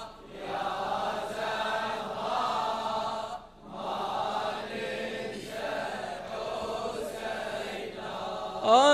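Layered backing chorus of male voices chanting in soft, drawn-out phrases of about a second each, behind a Shia latmiyya recitation. The lead radood's voice comes in loudly near the end.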